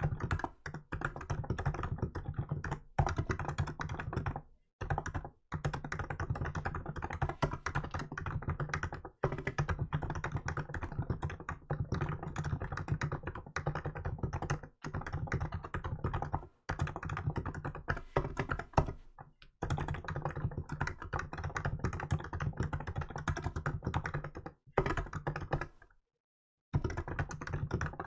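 Fast, steady typing on a Hansung GK868B electrostatic capacitive keyboard with milk keycaps: a dense run of keystrokes broken by brief pauses, the longest near the end.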